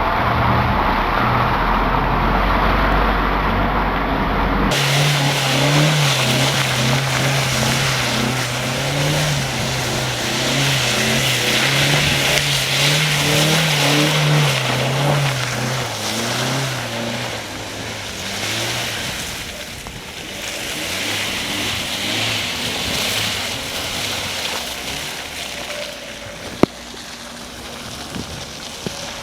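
Hyundai Tucson driving through mud: the engine works hard, its pitch rising and falling, over a steady rushing noise of tyres and mud. The engine note fades after the middle, and a single sharp click comes near the end.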